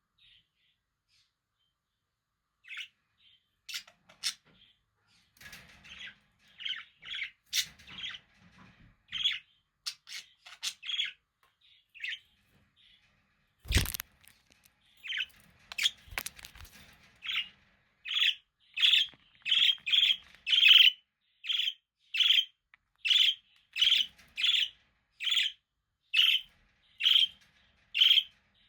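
Budgerigar chirping: scattered chirps starting a few seconds in, then from about two-thirds through a steady run of repeated chirps, about one and a half a second. A single sharp click sounds about halfway through.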